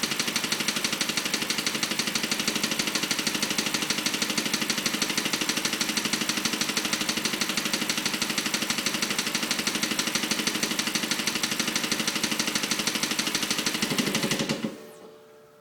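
BMW 545i's V8 engine idling with a rapid, steady clicking noise. The sound stops abruptly near the end.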